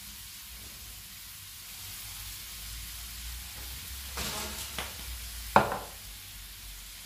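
Cuttlefish and onion sizzling steadily in olive oil in an aluminium frying pan. About four seconds in a pepper grinder is turned briefly over the pan, and at about five and a half seconds the small glass pepper jar is set down on the wooden counter with a sharp knock.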